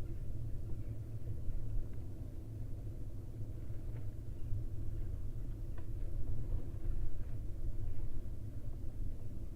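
Steady low rumble of background noise on the nest camera's microphone, with a few faint brief ticks.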